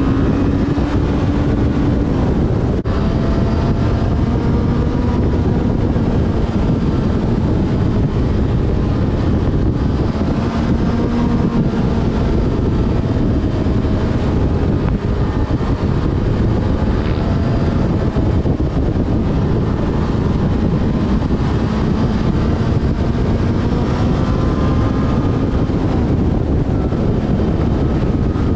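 Yamaha FZ6 Fazer's inline-four engine running at road speed, its pitch rising and falling several times with throttle and gear changes, under a steady rush of wind on the helmet-cam microphone.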